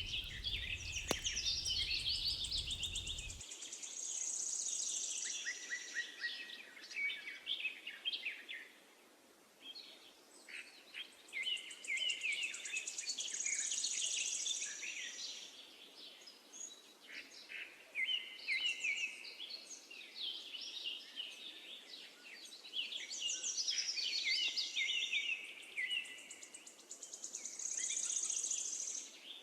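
Birdsong: several small birds chirping and singing in overlapping phrases, with a high trill coming back several times. A low rumble underneath cuts off suddenly about three seconds in.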